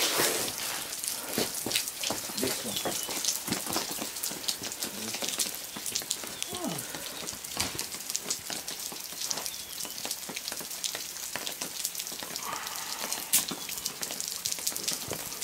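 Steady rain falling, heard as a dense run of small drop ticks over a constant hiss.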